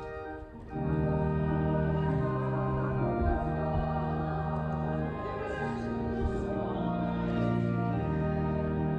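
Organ playing sustained, slowly changing chords; it comes in louder a little under a second in.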